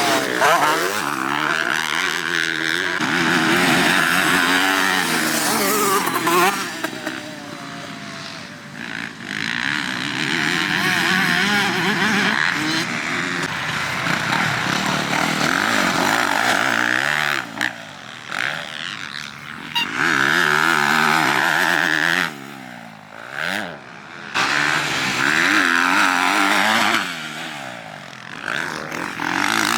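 Motocross dirt bike engine under race throttle, the revs climbing and falling again and again, with several short drops off the throttle in the second half.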